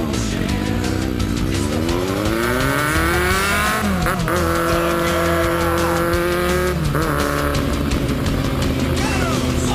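A vehicle engine revving up, climbing in pitch for about three seconds, then holding a steady pitch. Brief dips about four and seven seconds in sound like gear changes.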